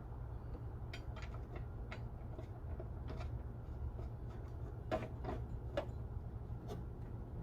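Irregular light clicks and taps of hand tools and metal parts being handled, over a steady low hum. The sharpest knocks come about five seconds in.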